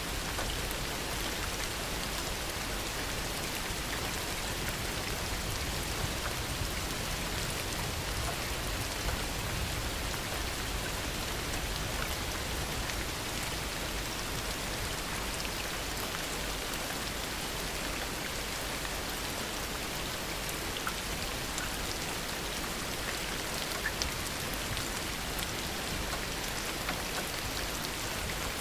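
Heavy rain falling steadily, an even continuous hiss with scattered single drops ticking through it.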